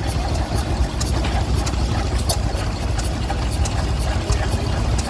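An engine running steadily, with irregular sharp clicks on top.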